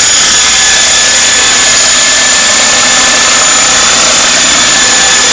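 A 500-size T-Rex radio-controlled helicopter in flight, its motor and rotor giving a steady, high-pitched whine.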